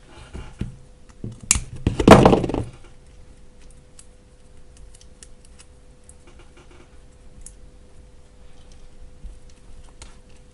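Clatter of small hard objects handled on a workbench, a loud burst of clinks and knocks about two seconds in, then faint scattered clicks.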